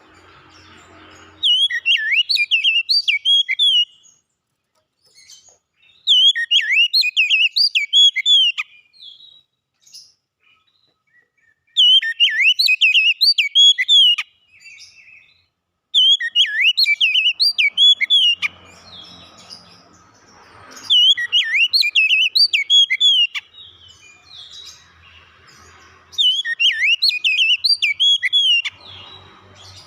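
Oriental magpie-robin (kacer) singing: six loud phrases of quick whistled notes, each about two and a half seconds long, with pauses of a few seconds between them.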